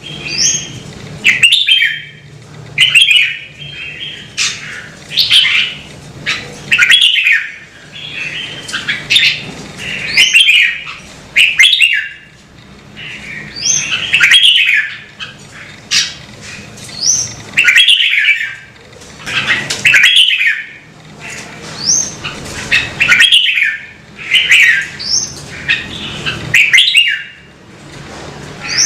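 Red-whiskered bulbul singing: short, quick phrases of whistled notes repeated every second or two, some with a fast rising note, over a faint low hum.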